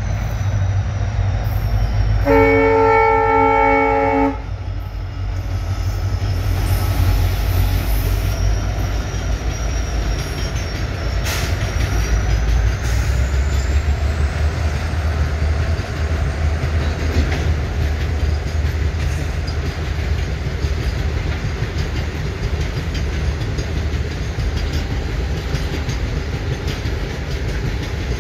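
Goods train hauled by diesel locomotives passing: a train horn blast lasting about two seconds, a couple of seconds in, over the low engine throb, then the steady rumble of the covered wagons rolling by.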